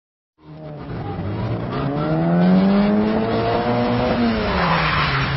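Classic Mini's four-cylinder engine revving higher and higher as the car accelerates hard in reverse, then easing off about four seconds in, followed by a rush of tyre noise on the wet tarmac as the car slides into the parking space.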